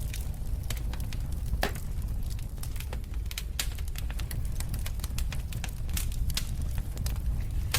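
Wood fire burning in a fireplace: a steady low rumble of the flames with irregular sharp crackles and pops of the burning logs, a few louder snaps among them.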